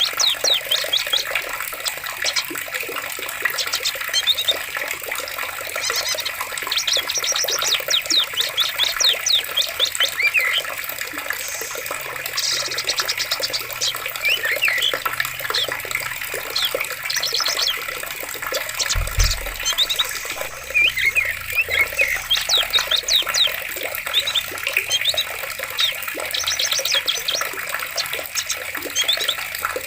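Running water of a forest stream, a steady rush, with many small birds chirping and trilling over it. About two-thirds of the way through there is one brief low thud.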